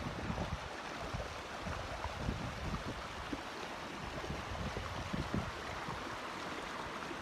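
Steady rush of flash-flood water flowing in a torrent, with light wind rumbling on the microphone now and then.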